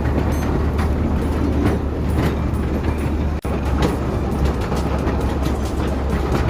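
Vintage passenger train running along the track, heard from aboard: a steady rumble with irregular clicks and knocks from the wheels and carriages. The sound drops out for an instant about halfway.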